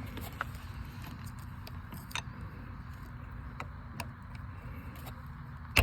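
A few faint, scattered clicks of small metal parts being handled, over a steady low hum.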